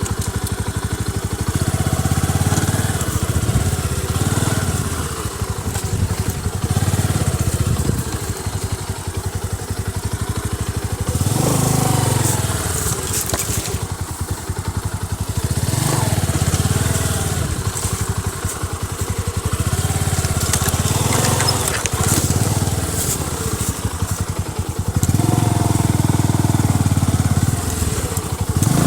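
Motorcycle engine running on the move, its note swelling and falling back every few seconds as the throttle is opened and closed, with clatter and crackle from the rough track.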